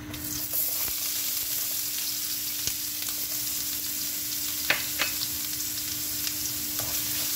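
Minced ginger and garlic hitting hot oil in a pan and frying with a steady sizzle that starts suddenly, with two sharp clicks a moment apart about two-thirds of the way through.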